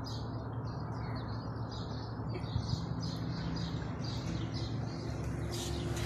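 Small birds chirping in short, quick repeated calls, about three a second, over a steady low hum.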